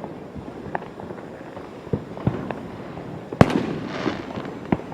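Fireworks going off: scattered bangs at irregular intervals, the loudest about three and a half seconds in, followed by about a second of crackling.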